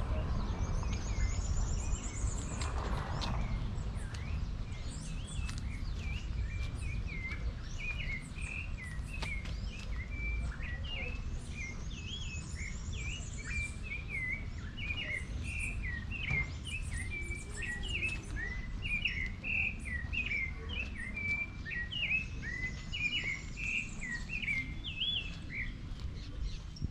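Birds singing and calling: a busy run of short whistled chirps and slurred notes, with a quick high trill that comes three times about ten seconds apart. A steady low rumble runs underneath.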